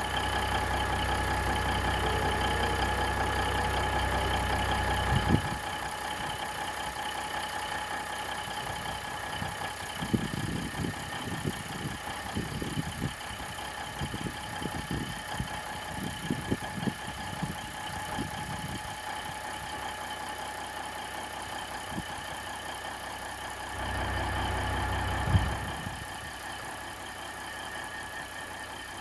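Caterpillar 3406B inline-six diesel idling steadily, running on its rebuilt fuel transfer pump, with a steady whine over it. A deeper rumble is heard for the first five seconds and again briefly near the end, and irregular knocks and clatter come in the middle.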